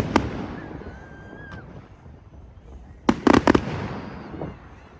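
Fireworks bursting: a bang right at the start, then a quick run of four or five bangs about three seconds in, each trailing off into a fading rumble.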